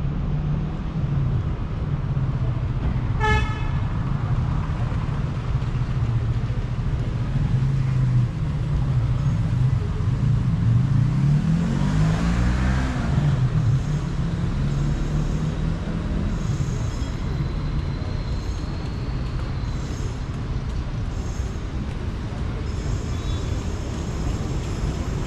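City street traffic: engines running steadily, with one short car horn toot about three seconds in and a vehicle passing near the middle, its engine note rising then falling.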